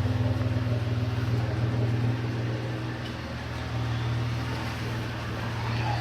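1993 Mitsubishi 3000GT's V6 engine idling steadily, its exhaust running with a fast, even pulse.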